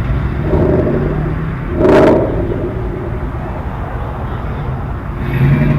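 Car engine rumbling steadily at low speed as it drives past, with one short, loud burst of sound about two seconds in.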